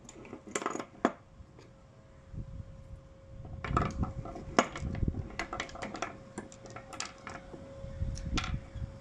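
Irregular small metal clicks and clinks of screws and hand tools being handled as the screws go back into a Bendix purge valve, over a faint steady hum.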